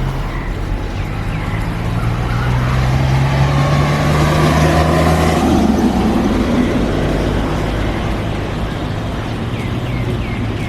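An engine running steadily, growing louder toward the middle and then changing in pitch, with a few short chirps early on and near the end.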